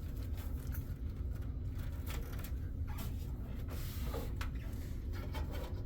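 Bundled front-panel cables being pushed and pulled through a PC case's cable-routing cutout: short rustles and plastic scrapes against the case, the clearest about two, three, four and five seconds in, over a steady low hum.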